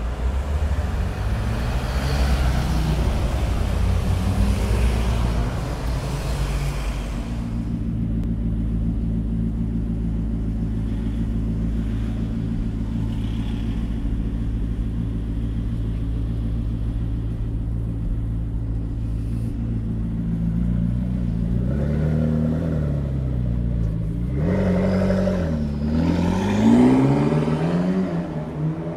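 Road traffic pulling away, engines climbing in pitch. Then a McLaren MP4-12C's twin-turbo V8 idles steadily and, near the end, is revved up and down several times.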